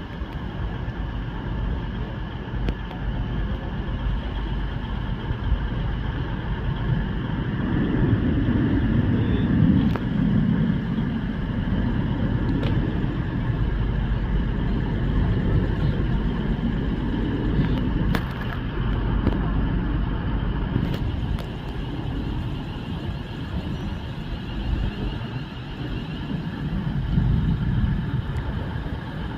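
A train running, a steady low rumble that swells twice, with a faint steady hum above it.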